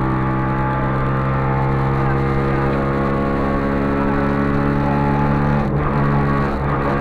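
Trabant 601 rally car's two-stroke, two-cylinder engine running hard at high revs, heard from inside the cabin. The engine note holds a steady pitch, with two short dips near the end.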